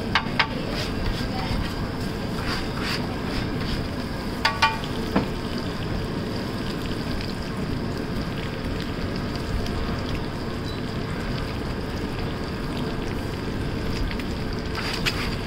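Sliced boiled eggs and dry red chillies frying with a steady sizzle on a large flat iron griddle. A metal scraper clacks sharply against the griddle a few times: twice at the start, a quick cluster of three about four and a half to five seconds in, and once near the end.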